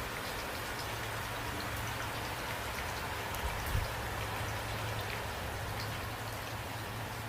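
Steady rain falling: a dense, even hiss with individual drops ticking through it, over a low steady rumble. A single soft low thud comes a little past the middle.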